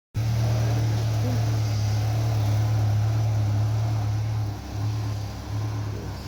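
Ford Ranger pickup's engine idling with a steady low drone, which dips briefly a few times in the last two seconds.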